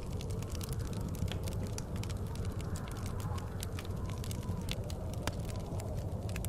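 Wood fire crackling, with frequent irregular sharp pops, over a steady low rumble of blizzard wind.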